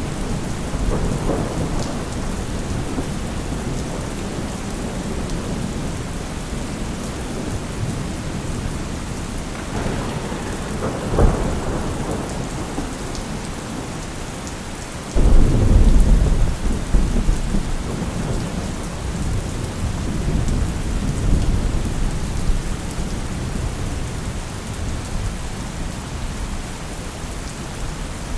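Steady heavy rain with thunder rolling through it: a low rumble near the start, a sharp crack about 11 seconds in, and the loudest, a sudden deep thunderclap about halfway through that rumbles away over several seconds, with a smaller swell of rumbling after it.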